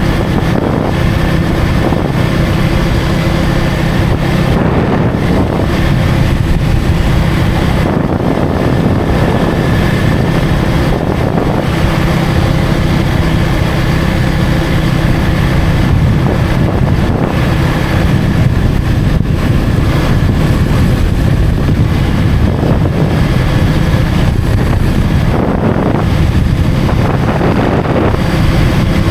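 KTM Duke 250's single-cylinder engine running at a steady cruising speed, with heavy wind noise rushing over the microphone.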